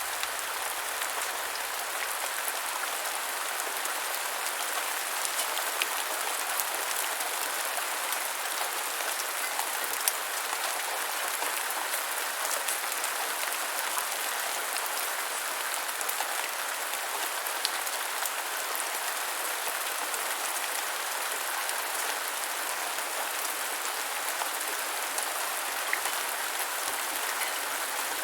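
Steady rain falling on a hard surface, a constant patter with scattered louder drop hits.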